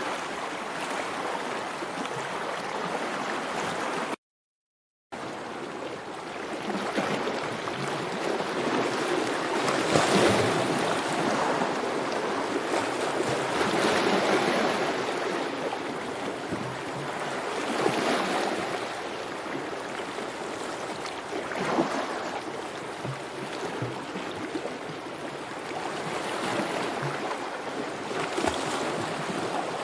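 Rushing water from a relaxing-sounds track, swelling and easing every few seconds, with a sudden gap of silence lasting about a second, four seconds in.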